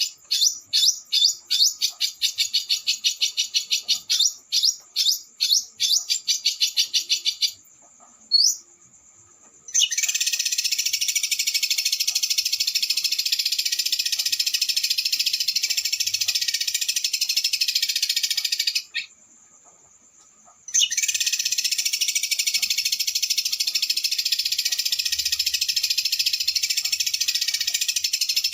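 Recorded small songbird's fast, harsh rolling song. It opens with a run of sharp, rapidly repeated call notes and a brief rising whistle about eight seconds in, then gives long, continuous rattling trills broken by one short pause. This is a 'roll speed' masteran: tutor song played for murai batu (white-rumped shama) to copy.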